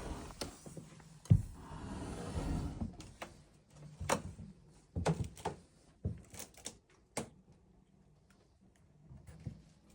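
Handling noises: a sharp knock about a second in, a couple of seconds of rustling, then scattered clicks and taps that thin out towards the end.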